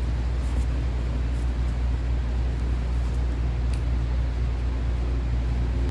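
A steady low mechanical hum with a light hiss, unchanging throughout, with a few faint soft ticks.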